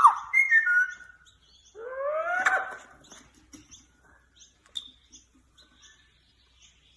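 A pet parrot calling: a few short falling whistled notes, then a longer rising call about two seconds in, followed by faint, quick high chirps.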